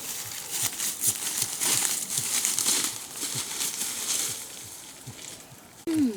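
Crackling rustle of leaves and vegetation, busiest in the middle, with a few short, low, falling squeaks and a louder one near the end.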